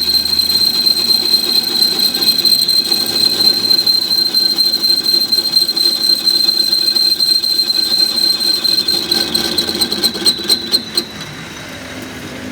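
A loud, steady, high-pitched mechanical whine with a rougher low rumble beneath it. It stutters in a few quick pulses and cuts off about eleven seconds in, leaving a quieter low hum.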